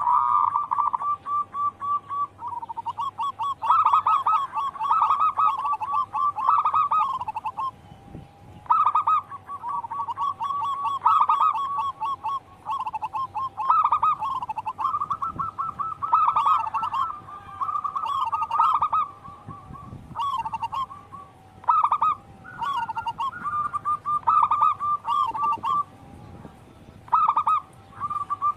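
Zebra dove (perkutut) song: repeated phrases of rapid, staccato cooing notes, broken every few seconds by short pauses.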